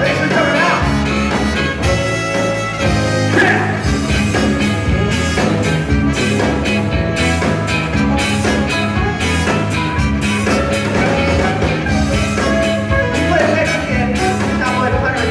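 Live rock band playing with singing over a steady drum beat.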